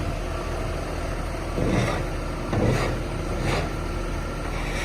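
Heavy-equipment engine idling steadily, with three brief clunks about two, three and three and a half seconds in.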